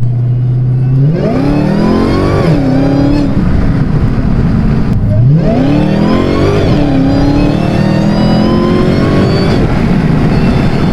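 Dodge Hellcat's supercharged V8, exhaust running with the mid-pipe delete, pulling hard twice. Each time the note climbs sharply in pitch, drops back as the next gear comes in, and keeps rising under load.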